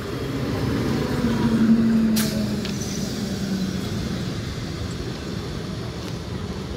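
Electric multiple unit local train passing close by, its wheels rumbling steadily on the rails. A low hum runs through the first few seconds, and there is a sharp click about two seconds in.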